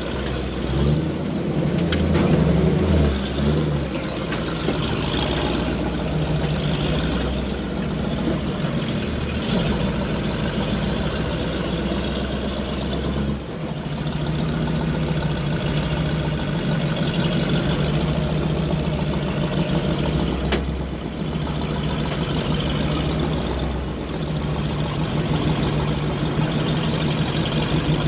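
Vehicle engine running steadily at low speed while driving an off-road trail, with an unbroken low drone that briefly dips about halfway through and a couple of faint knocks.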